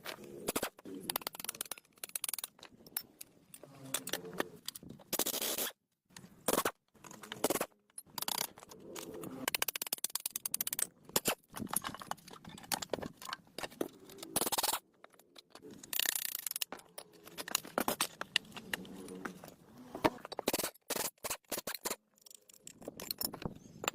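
Hand work on a metal engine part: intermittent scraping, clicks and knocks, with short silent gaps between them.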